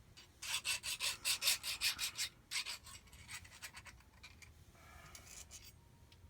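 Mini half-round hand file rasping in quick back-and-forth strokes, filing burrs off a metal part of a jet ski impeller pump. The strokes are strongest in the first couple of seconds, then grow lighter and stop near the end.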